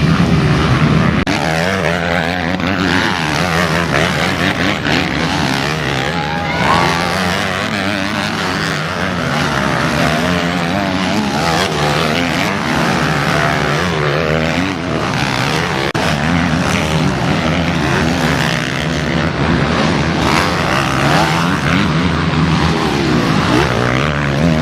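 Several motocross motorcycles racing around the track, their engines revving up and down and overlapping in a continuous drone.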